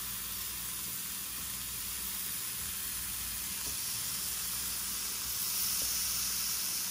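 Tofu pieces sizzling in oil on a hot electric griddle: a steady frying hiss that grows a little louder and brighter about five seconds in as more pieces go down.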